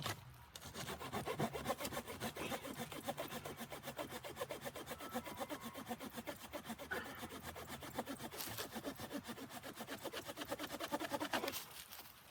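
Hand saw cutting through wood in quick, even back-and-forth strokes, stopping about a second before the end.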